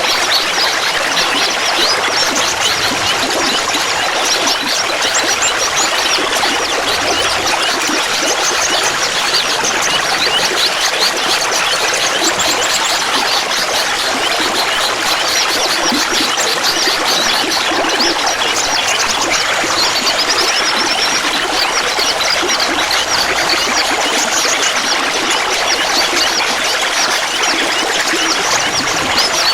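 Clear running water trickling and babbling steadily, with many small bright plinks.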